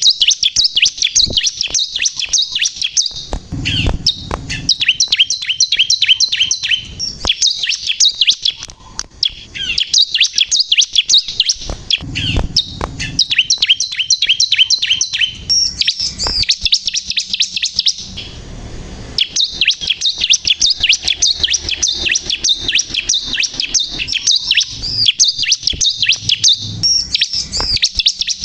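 A ciblek kristal (bar-winged prinia) in full song: long runs of fast, high, repeated chirping notes broken by brief pauses, with a few low thumps underneath.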